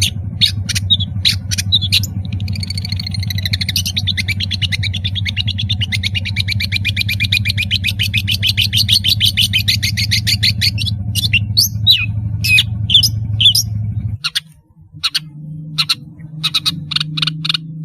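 Long-tailed shrike singing: short sharp harsh notes, then a long rapid trill lasting about eight seconds, then more sharp notes. A steady low hum underlies it and cuts off suddenly about fourteen seconds in, replaced by a different low drone.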